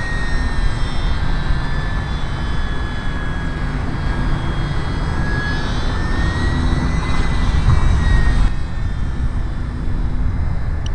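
Ultra-micro electric RC airplane flying, its motor and propeller giving a thin high whine that drifts up and down in pitch with throttle and drops away about eight seconds in. Heavy wind rumble on the microphone runs underneath.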